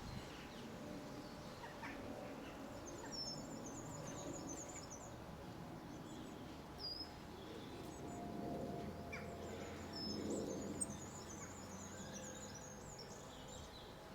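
Small garden birds chirping: two runs of quick, high twittering, the second one longer, over steady low background noise.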